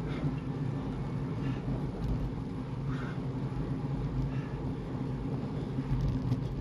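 A motor vehicle's engine running at a steady speed, a constant low drone with a rumble beneath it.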